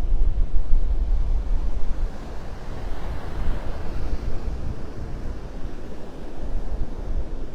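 Surf washing on the beach with wind buffeting the microphone; a wave's wash swells about halfway through and then eases.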